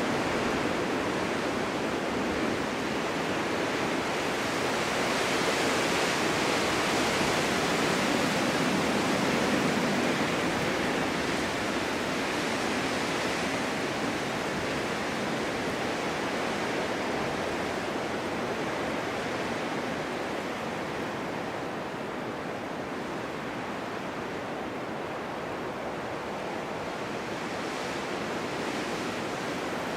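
Strong winter wind blowing steadily, a continuous rushing that swells and eases slowly in gusts.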